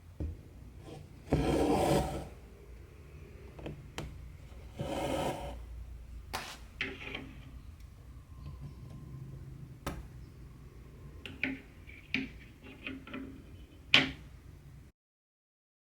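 Hand cross-stitching: thread drawn through the fabric in two longer scratchy pulls, then a run of small clicks and taps from handling the needle and hoop. The sound cuts off suddenly near the end.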